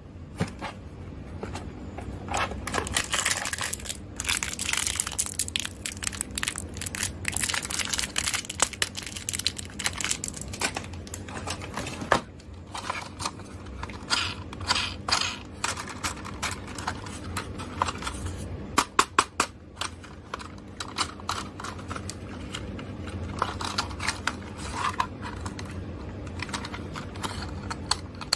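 Hands handling small toys and their packaging: continuous rustling and crinkling with many small clicks and taps.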